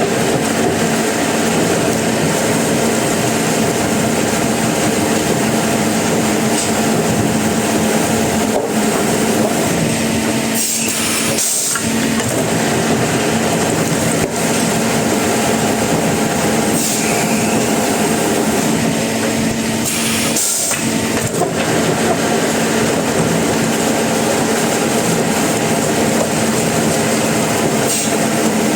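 Sawmill saw running steadily at a loud level, a constant machine hum under dense noise, with a few brief dips around the middle.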